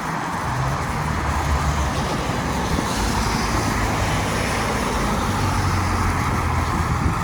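City road traffic on wet pavement: a steady hiss with the low hum of a motor vehicle's engine, starting about half a second in.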